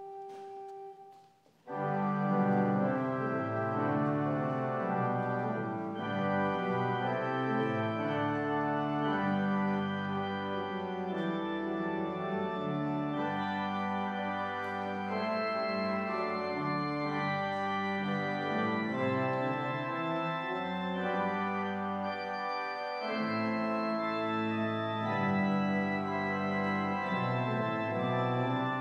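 Organ music for the offertory: a soft single held melody line fades out about a second in, then full sustained chords come in and carry on steadily.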